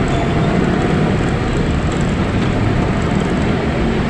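Steady road and wind noise of a moving electric tricycle, an even rushing sound heaviest at the low end, with no engine note.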